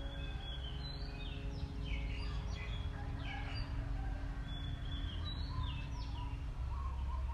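Small birds chirping in short, quick high calls over steady outdoor background hum, while a held music chord fades out.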